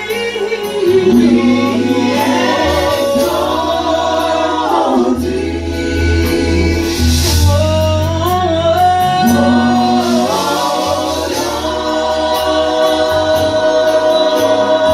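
Church worship team singing a gospel song, several voices together over instrumental backing with sustained low bass notes.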